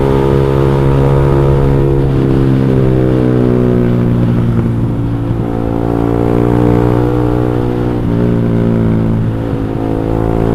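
Motorcycle engine running through an X1 Speed aftermarket exhaust with a short 15 cm, fully packed silencer, under way on the road; a mellow, bassy note. The revs ease down over the first few seconds, hold steady, dip briefly near the end and then pick up again.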